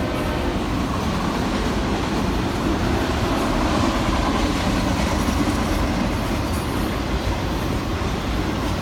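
Train rolling past, a steady noise of wheels and cars on the rails.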